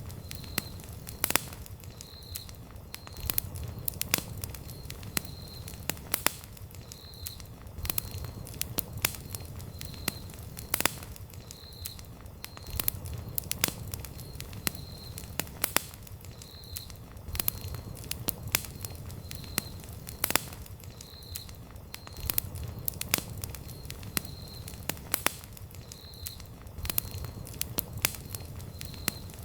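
Wood campfire burning, with irregular sharp crackles and pops (several a second, some louder snaps) over a steady low rumble of the flames.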